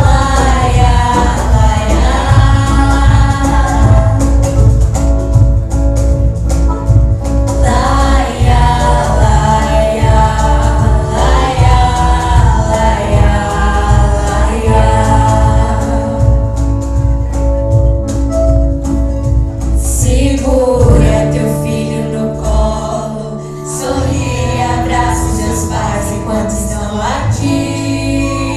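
Music: singing voices over an instrumental backing with a steady bass. The bass thins out for a few seconds about twenty seconds in, then comes back.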